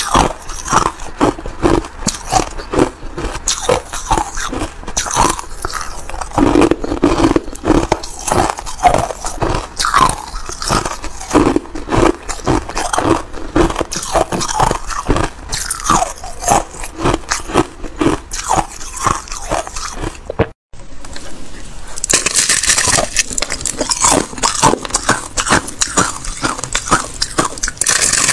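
Thin ice being bitten and chewed close to the microphone: a rapid, continuous run of crisp crunches and cracks. After a brief break about two-thirds of the way through, the crunching comes back harsher and brighter.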